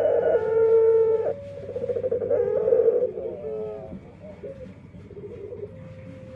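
A male puter dove (Barbary dove) cooing in a string of pitched notes. The notes are louder for the first few seconds and softer near the end. The call is unusual enough that the breeder wonders whether it is unique or a defect.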